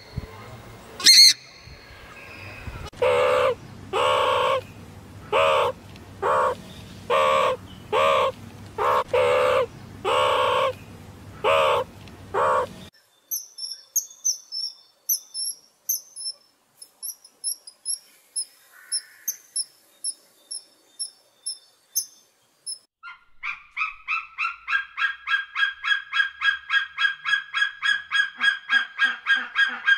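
Purple swamphens calling: a series of loud honking calls about once a second. About halfway through these give way to a bird's thin, very high chirps in quick series. Near the end comes a fast, even run of shrill calls.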